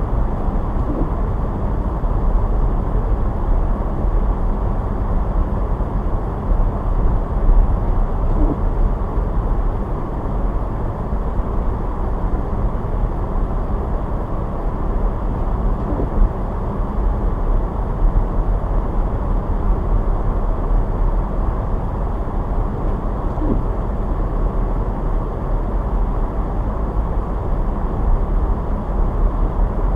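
A car driving, with the steady low rumble of engine and road noise. A few faint short chirps come about every seven or eight seconds.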